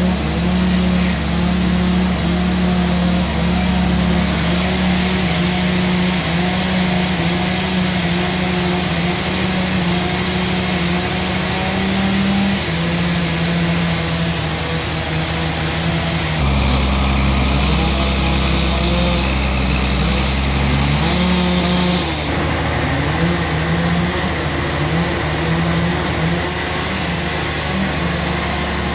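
Sawmill engine running steadily, its pitch stepping up and down, with abrupt changes in the sound where the footage is cut.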